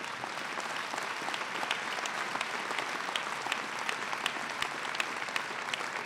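Audience applauding, a steady wash of many hands clapping with sharp individual claps standing out.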